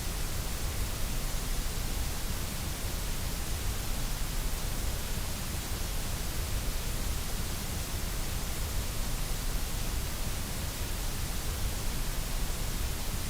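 Steady, unchanging white noise played for sleep and relaxation: an even hiss across all pitches with a low rumble beneath, and no breaks or changes.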